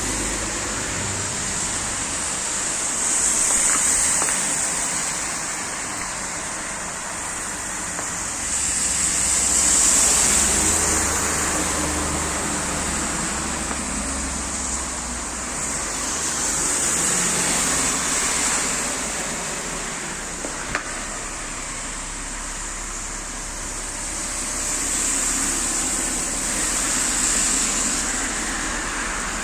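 Road traffic: a steady hiss of tyres and engines, with single vehicles swelling up and fading away about every seven seconds.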